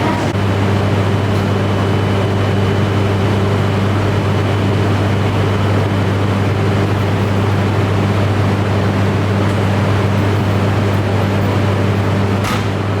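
Steady low electrical hum from shinkansen trains standing at the platform, their auxiliary and air-conditioning equipment running, with a faint high whine above it and a single click near the end.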